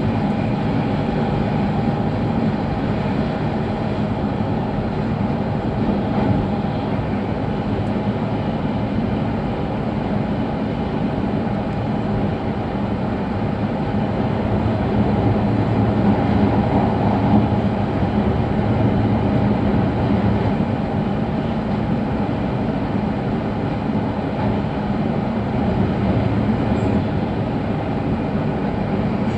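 Steady running noise inside an E5 series Shinkansen passenger car travelling at speed: an even low rumble of wheels on rail and air past the body, swelling slightly about halfway through.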